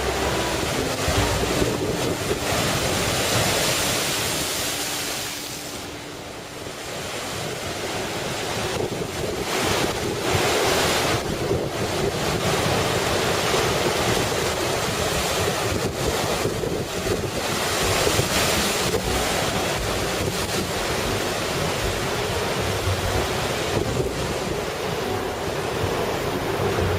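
Heavy storm surf from typhoon-driven high waves crashing and churning against the shore, with strong wind buffeting the microphone. The surf eases briefly about six seconds in, then builds again with several louder surges.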